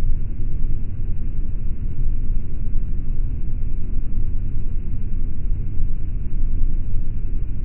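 Steady low rumble inside an airliner cabin at cruising altitude: engine and airflow noise.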